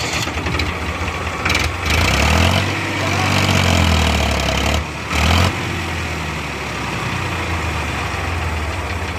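A vehicle engine running. It revs up and back down between about two and five seconds in, then settles to a steady idle.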